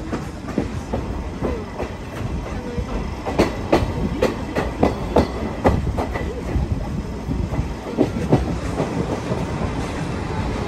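Steam-hauled passenger train rolling along, heard from inside the coach: a steady rumble of the running gear with sharp clacks of the wheels over rail joints, thickest in the middle.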